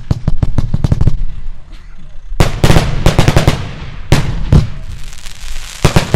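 Aerial fireworks firing and bursting: a rapid string of sharp cracks in the first second, then a dense run of bangs about two and a half seconds in, a couple of single loud bangs, and more cracks near the end.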